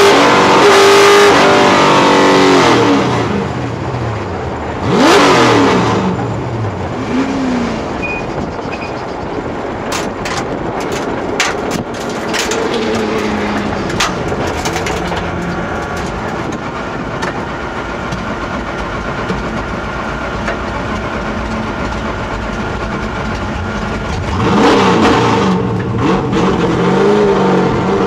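Drag-racing Mustang's engine heard from inside the car, winding down as the car comes off the power and slows after the run, with one quick rev about five seconds in. It then runs low and steady while the car rolls slowly, with a few sharp clicks and rattles in the cabin, and picks up again near the end.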